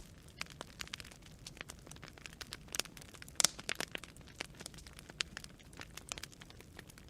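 Wood fire crackling: irregular sharp pops and snaps of burning branches over a low steady hiss, with a louder pop about three and a half seconds in.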